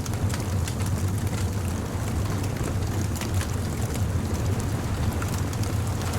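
Bonfire crackling, with frequent small sharp pops and snaps, over a low steady rumble.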